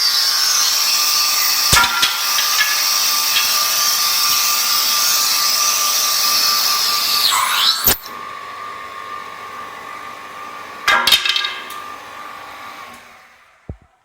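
Woodworking machine for broom handles running and cutting wood: a steady whine over a loud hiss. About eight seconds in there is a knock and it goes quieter, with a brief loud burst near eleven seconds, then it winds down to silence.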